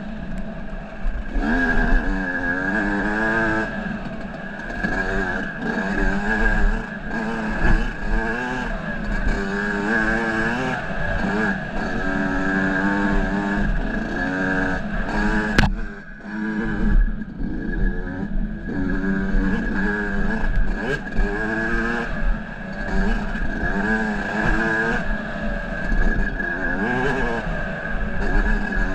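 Dirt bike engine being ridden on trail, its pitch rising and falling over and over as the throttle is worked, with a steady high whine over it. A single sharp click about halfway through, followed by a brief drop in engine sound.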